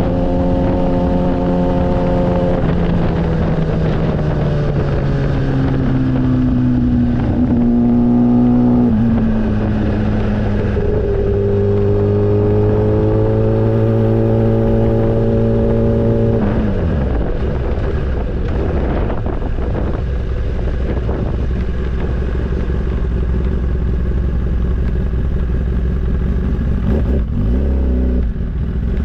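Motorcycle engine running while being ridden, its pitch dropping a few seconds in, climbing slowly, then falling sharply about halfway through to a low steady rumble, with wind rushing over the microphone.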